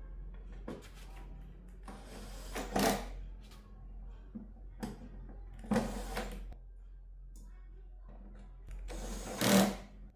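A small motorised tool whirring in three short bursts, about three seconds apart, with light clicks between them over a steady low hum.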